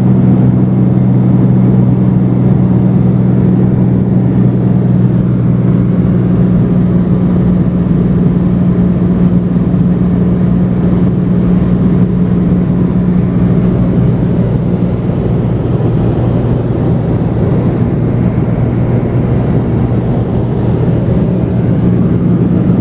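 Cessna 210's piston engine and propeller running steadily, a loud low drone with a constant pitch, heard inside the cabin in flight.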